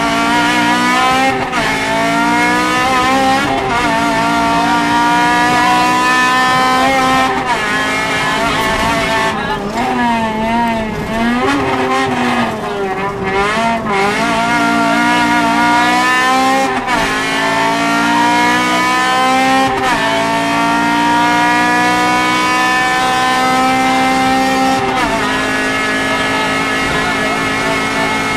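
Honda Civic VTi rally car engine heard from inside the cabin under hard acceleration. The revs climb steadily in pitch and drop sharply at each upshift, several times over. For a few seconds near the middle the revs waver up and down before it pulls up through the gears again.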